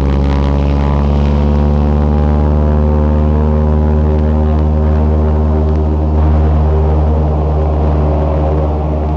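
Small propeller plane's piston engine droning steadily, heard from inside the cabin. The sound eases off slightly near the end.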